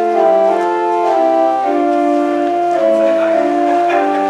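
Organ playing slow, full, sustained chords that change step by step.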